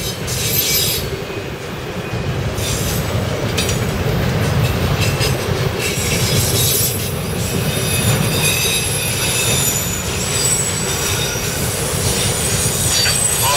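Freight train of enclosed autorack cars rolling past at close range: a steady low rumble of steel wheels on rail, with thin, high-pitched wheel squeal coming and going over it.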